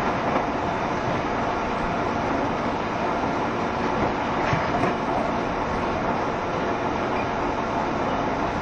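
JR Shikoku 7200 series electric train running at speed, heard from inside the car: a steady rumble of wheels on rail with a few faint knocks.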